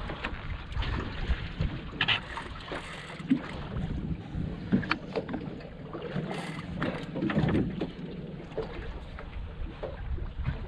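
Wind buffeting the microphone and water against the hull of a small boat at sea, with scattered knocks and clunks from around the boat.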